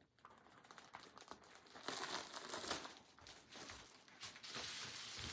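Plastic bag of yarn crinkling and rustling as it is handled, in a run of small, uneven crackles.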